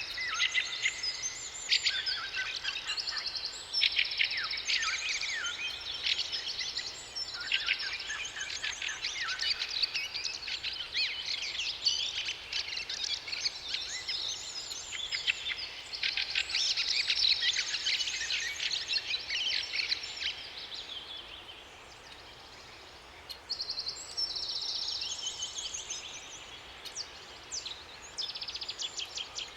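A chorus of songbirds singing and chirping over one another, with rapid trills and quick twittering notes. It thins to a brief quieter lull about two-thirds of the way through, then singing picks up again.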